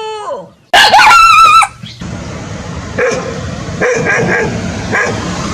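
A dog howling in a high, wavering pitch. About two seconds in, the sound cuts to several short, sharp barks over a steady background hiss.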